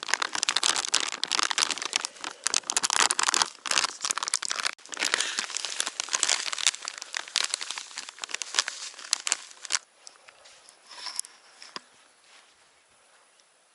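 Plastic packet of fishing groundbait being handled and crinkled, with dense crackling that stops abruptly about ten seconds in.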